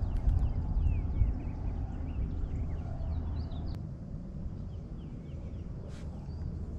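Small birds chirping faintly and repeatedly in the background over a steady low rumble of outdoor ambience at the lakeshore.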